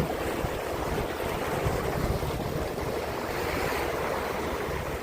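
Wind buffeting the microphone over a steady wash of sea water.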